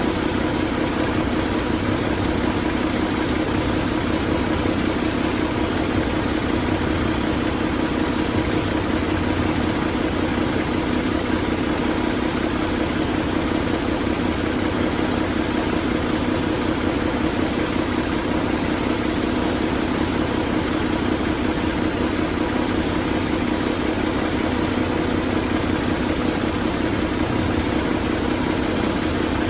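Paccar MX13 inline-six diesel engine idling steadily.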